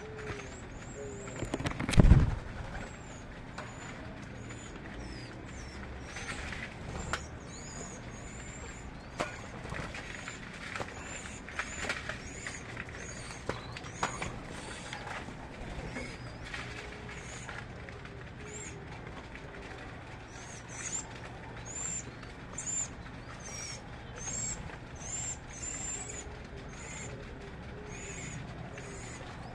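Birds calling: many short, high chirps repeated throughout, with a lower call of short repeated notes near the start and again through the second half. A single loud thump about two seconds in.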